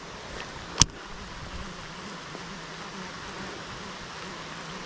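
Steady rain falling, an even hiss, with a single sharp click about a second in.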